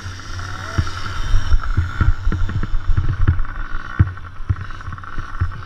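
Motocross dirt bikes running on the track, a steady high buzz, with irregular low thumps on the microphone.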